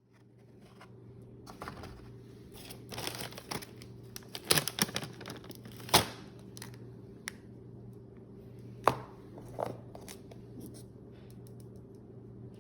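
Food packaging being handled and opened: irregular crinkling, tearing and sharp clicks, busiest in the first half, over a steady low hum.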